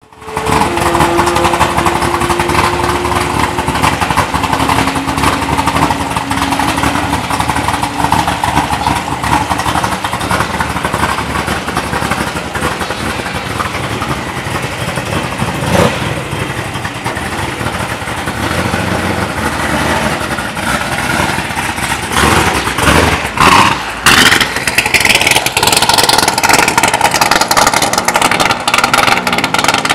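Corvette C7 Z06's 468 cubic-inch naturally aspirated LT V8, with an aggressive cam and long-tube headers, idling with a heavy, uneven lope. About three-quarters of the way through it gets louder as the car pulls away.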